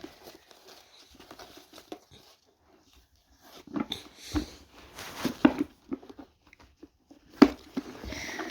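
Irregular plastic clicks, knocks and rustles as a Numatic Henry vacuum cleaner's body is handled to open it, with one sharp click near the end.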